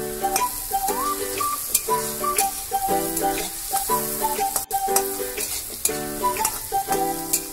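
Sliced onions sizzling in oil in a kadai, stirred and scraped with a metal spatula, under background music with a repeating melody.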